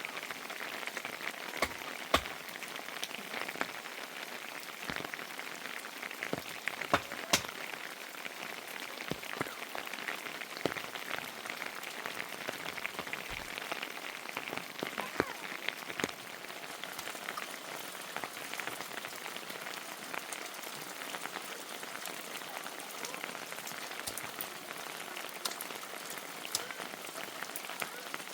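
Steady rain falling, with many scattered sharp drop impacts ticking through it.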